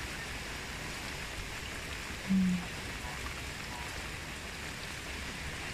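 Steady rain falling on a pond, an even hiss of drops hitting the water. A brief low hum sounds a little over two seconds in, and faint waterfowl calls come about three seconds in.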